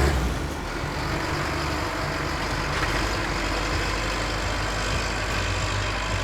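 Heavy engine of a motor grader running steadily as it works.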